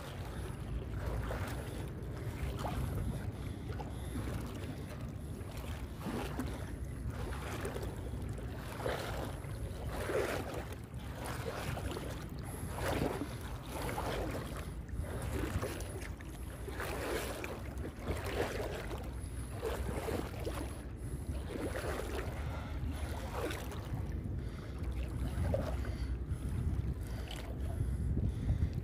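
A person wading through thigh-deep swamp water, sloshing and splashing with each stride, at about one splash a second, over a steady low rumble.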